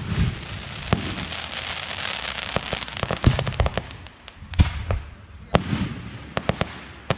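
Fireworks bursting in sharp bangs, roughly one a second, with a quick cluster of them near the end. A dense crackling hiss fills the first few seconds.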